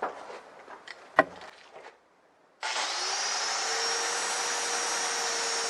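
A few light taps and a sharp click, then after a short gap an electric angle grinder starts, its whine rising as it spins up and then running steadily.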